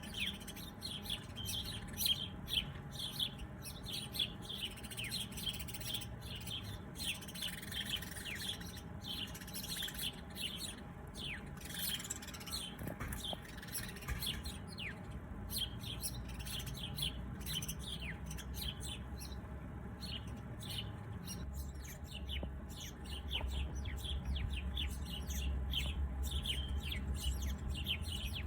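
Many small songbirds chirping and twittering in quick, short calls, some sweeping down in pitch, over a low background rumble that gets louder near the end.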